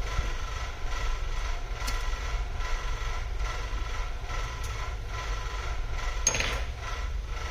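Light mechanical clicks and scrapes from small hand tools working on a laptop during repair, over a steady low hum. A louder, brief scrape comes about six seconds in.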